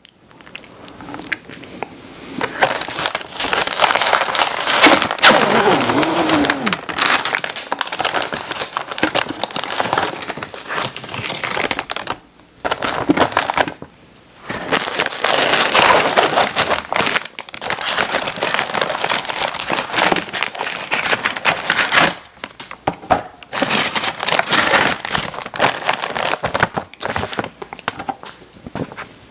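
Plastic cookie packaging crinkling and crackling as it is handled and opened, in long stretches with two short pauses near the middle.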